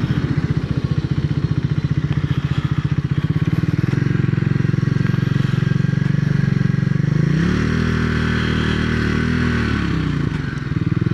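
Triumph Speed 400's single-cylinder engine running with a distinct pulsing beat. About seven seconds in the revs rise and hold, then drop back after about three seconds.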